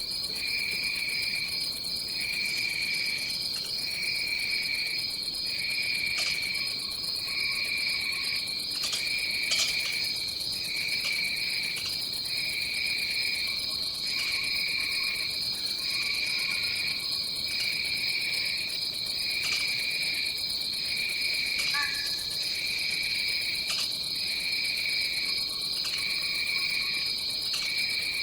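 Rainforest insect chorus: a continuous high-pitched insect drone, with a second, lower trill that pulses on and off about once a second and a few scattered short chirps.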